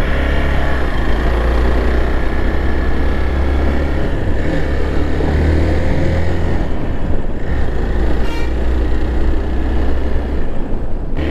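Motorcycle running on the move, with a steady low rumble and rushing noise. A short horn toot comes a little over eight seconds in.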